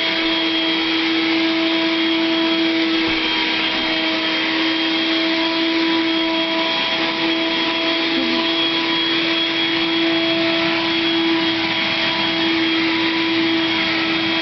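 Upright vacuum cleaner running steadily: an even motor hum with a strong steady tone over a wide hiss.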